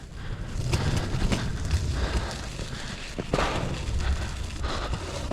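A mini bike's tyres rolling fast down a dirt trail, a steady low rumble and crackle with a few sharp knocks as it goes over braking bumps.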